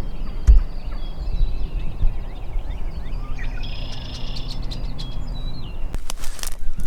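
Small songbirds chirping and singing in the background over a low, uneven rumble, with a denser phrase of song about three seconds in. A brief rustle near the end.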